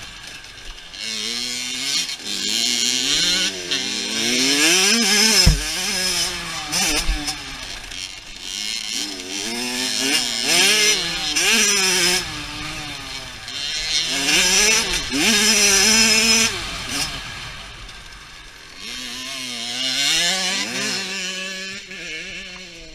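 Dirt bike engine revving hard, its pitch climbing and dropping again and again as the rider accelerates and shifts through the gears. It fades away near the end.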